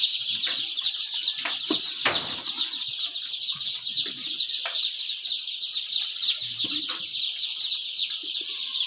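Many chicks peeping together, a dense continuous chatter of high chirps, with a single knock about two seconds in.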